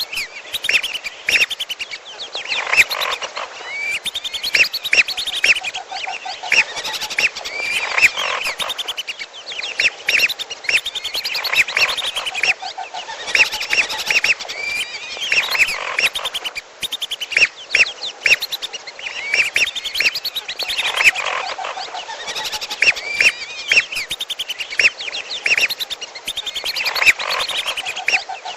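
Whistling ducks (belibis) calling in a bird-lure recording, mixed with the calls of a second bird, the piolo: many quick, overlapping high whistled notes, with lower rapid chattering runs coming back every few seconds.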